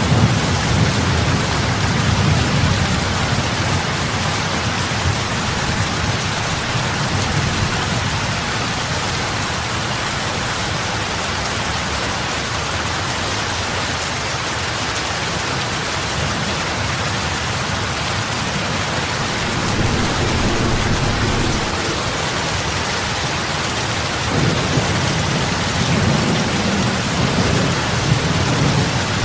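Heavy rain falling on lake water, big drops splashing into it: a steady hiss over a low rumble that is strongest at the start, fades through the middle and swells again over the last few seconds.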